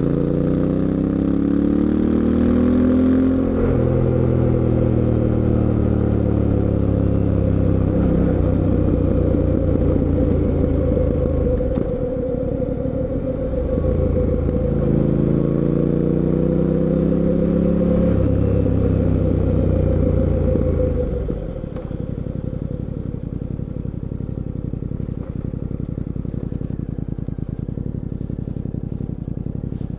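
Fantic Caballero 700 Scrambler's 689 cc parallel-twin engine accelerating through the gears, its pitch rising and then dropping at each upshift, twice over. About two-thirds of the way through the throttle closes and the engine fades, leaving steady wind and road noise.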